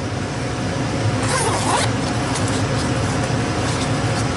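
Zipper on a soft carrying bag pulled open in a short rasp about a second and a half in, followed by a few light handling clicks, over a steady low hum.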